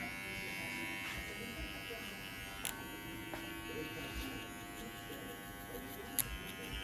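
TPOB GO hair clippers running with a steady electric buzz during a haircut, with two sharp clicks about three and six seconds in.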